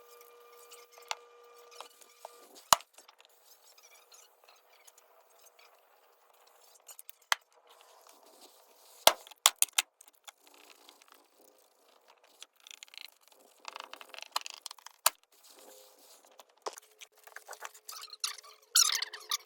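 Small metal tools and hardware being handled: scattered sharp clicks and clinks, the loudest about three seconds in and a quick cluster around ten seconds in, with light rustling between them.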